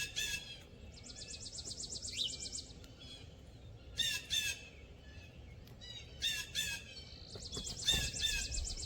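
Wild birds calling: harsh, hoarse calls that come mostly in quick pairs, several times over. A fast, high, even trill is heard about a second in and again near the end.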